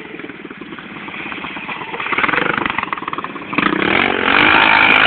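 Pit bike engine running, growing louder, then revving up from about three and a half seconds in.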